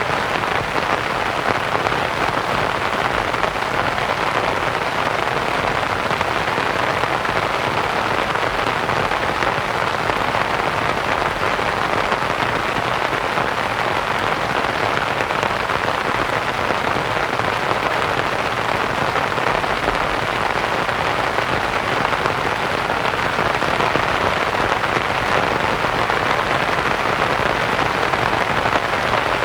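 Steady rain pattering on a canvas tent, mixed with soft white noise into an even, unbroken hiss.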